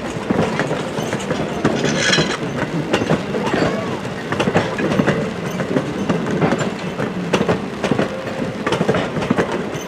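Steam-hauled passenger train rolling by, its car wheels clicking and knocking irregularly over the rail joints on a steady rumble.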